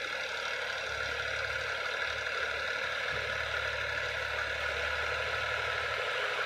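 Al-Ghazi tractor running steadily, a low engine hum under a continuous hiss.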